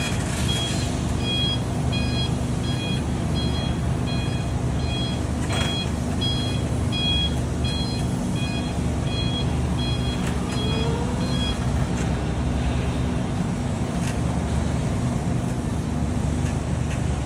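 Electric reach truck's warning beeper sounding short, evenly spaced beeps about every 0.7 s, which stop about two-thirds of the way through, over a steady low hum.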